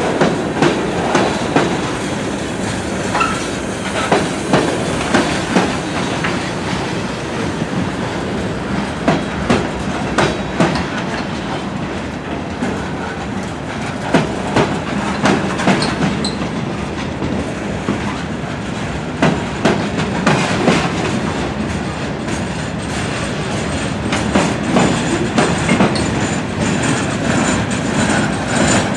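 Freight cars rolling past on steel rails: a steady rumble of wheels on track, broken every few seconds by a quick group of clicks as each car's wheelsets cross a rail joint.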